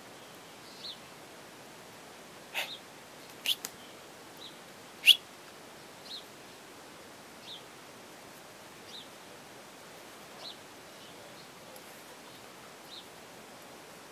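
A small bird giving a short single chirp about every second and a half over a faint, even outdoor background. A few sharp clicks come in between about two and a half and five seconds in, the loudest about five seconds in.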